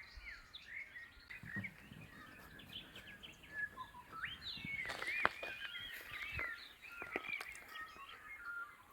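Woodland dawn chorus: many birds chirping and whistling together in overlapping short calls, with one louder sweeping whistle about five seconds in.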